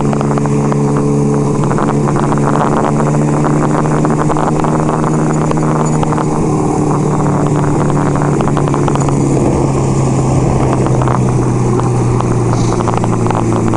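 1975 Kawasaki KZ400's parallel-twin engine running steadily while the bike is ridden at cruising speed, its pitch easing slightly about two-thirds of the way through.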